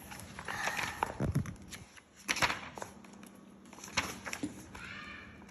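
Rustles and a few knocks and thumps of handling, with one louder sharp knock about two seconds in: a picture book's page being turned between the title and the first page.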